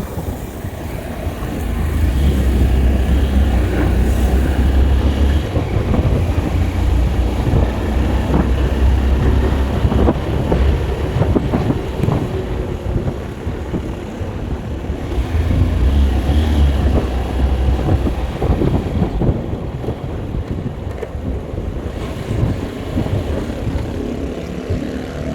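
A vehicle on the move, its road noise running steadily, with wind buffeting the microphone. Heavier low rumbles come in about two seconds in and again around sixteen seconds.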